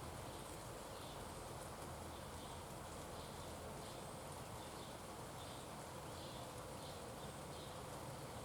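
Faint outdoor ambience: a steady hiss with short, high chirps repeating about twice a second.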